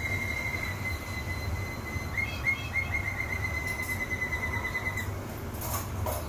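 A domestic canary singing a long, rapid, high trill on one pitch, broken about two seconds in by a run of quick rising chirps. The song stops about five seconds in, followed by a few short clicks, over a steady low hum.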